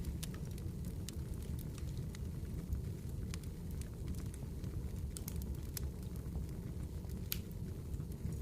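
Wood campfire burning: a steady low rush from the flames with sharp crackles and pops scattered throughout, two of them louder, about three and seven seconds in.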